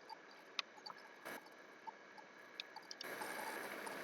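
Faint scattered clicks from computer use, half a dozen sharp taps spread over a few seconds, over quiet room hiss.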